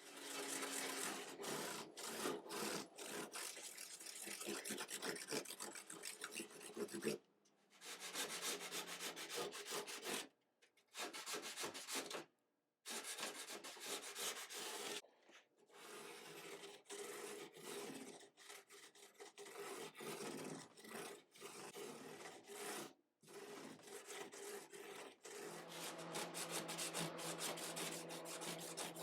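Hand abrading of guitar wood: a quick run of rubbing, rasping strokes, broken by a few brief pauses.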